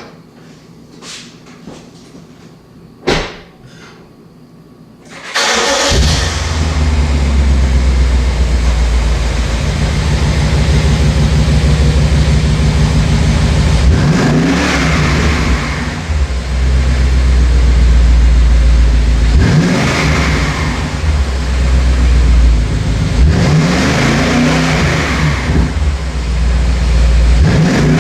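A few sharp clicks, then about five seconds in the 4.4-litre twin-turbo V8 of a 2013 BMW 750Li starts, breathing through Flowmaster 50 Series Delta Flow mufflers, and settles into a deep idle. It is then revved four times from standstill, each rev climbing and falling back to idle.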